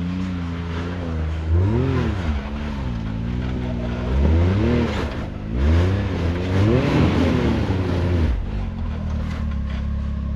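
Can-Am X3 side-by-side's turbocharged three-cylinder engine revving hard in about four rising and falling bursts while climbing a rough obstacle, settling to a steady low run near the end.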